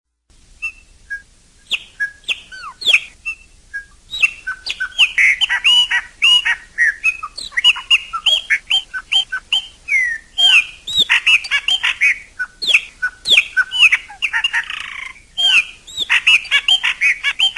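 Chopi blackbird (pássaro-preto) singing: a rapid, varied run of clear notes with quick rising and falling slurs, starting with a few separate notes and growing into a dense stream, with one harsher, scratchy note about three-quarters of the way through.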